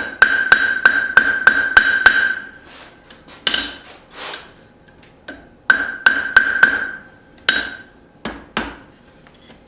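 Light, rapid hammer taps on the forged wrench against an anvil, each strike leaving a clear ringing tone. The taps come in two quick runs, about eight strikes at the start and four more a little past halfway, with single taps between and after.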